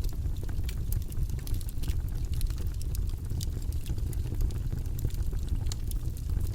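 Campfire crackling: irregular sharp pops and snaps of burning wood over a steady low rush of the flames.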